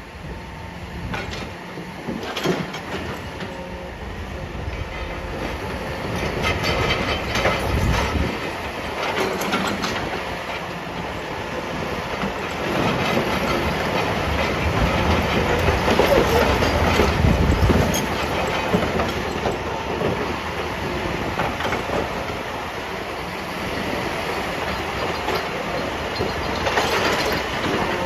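Heavy machinery running with a continuous rumble and irregular clattering, loudest around the middle.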